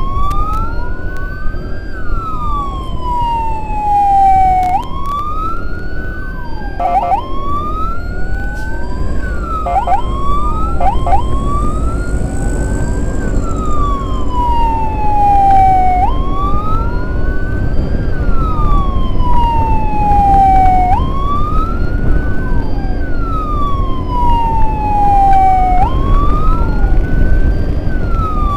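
Electronic emergency siren in a slow wail, its pitch rising for about two seconds and falling for about three, over and over, with a few quick short yelps around seven and eleven seconds in. A steady low rumble of vehicle engine and road noise runs beneath it.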